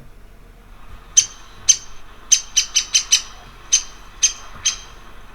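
Downy woodpecker giving a series of about a dozen short, sharp, high-pitched 'pik' call notes, irregularly spaced and coming quickly in a cluster in the middle.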